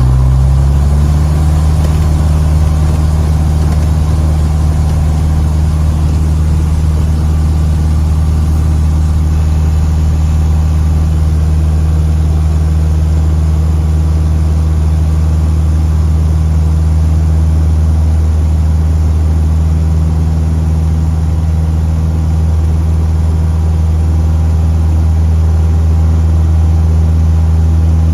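Cessna 150's four-cylinder engine and two-bladed propeller droning loudly and steadily, heard inside the cockpit. The pitch settles within the first second and then holds constant.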